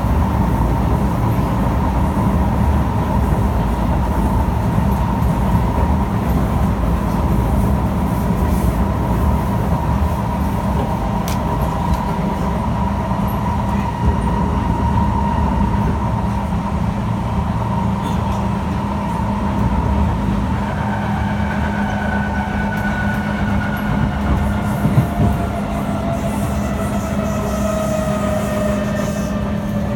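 Kawasaki C151 train heard from inside the car, running with a steady rumble of wheels on rail, a constant hum and a motor tone. From about two-thirds through, the GTO traction motors' whine falls steadily in pitch as the train slows.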